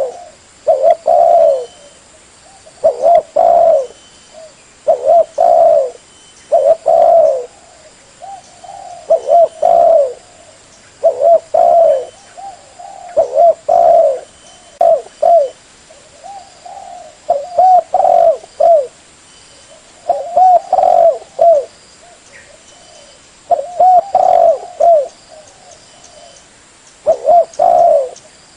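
Spotted dove (tekukur) cooing its song over and over: loud phrases of two or three low coos, one phrase every two to three seconds. This is the call used as a lure to draw wild spotted doves in.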